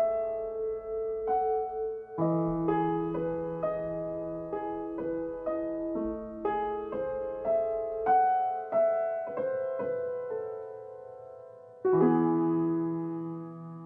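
Solo piano outro: a slow melody of single notes over held low notes, ending with a sustained chord about twelve seconds in that fades away.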